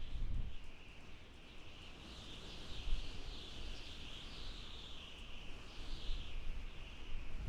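Desert wind howling: a high whistling tone that wavers up and down without break, over low gusts rumbling, strongest right at the start.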